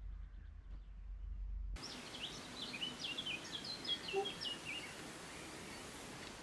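A low steady hum that cuts off abruptly about two seconds in, giving way to steady outdoor hiss. Over the hiss a songbird sings a quick run of short high notes that step up and down, then stops about two seconds before the end.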